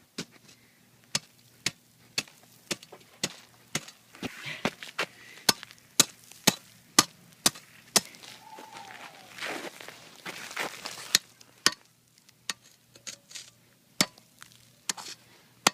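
A frozen salmon used as an ice pick, chopping into ice: hard, sharp strikes about twice a second, with a short break a little past the middle.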